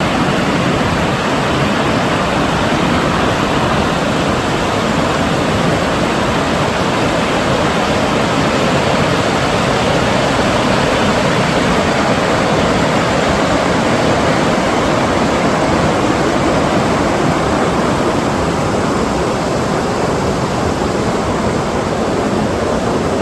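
Steady, loud rush of fast-flowing water, an even noise with no breaks that cuts off abruptly at the end.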